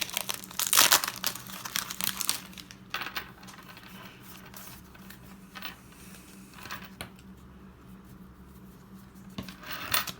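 Foil booster-pack wrapper crinkling and tearing as a Pokémon card pack is handled and opened, loudest in the first couple of seconds, then softer crackles and clicks, with another crinkle near the end.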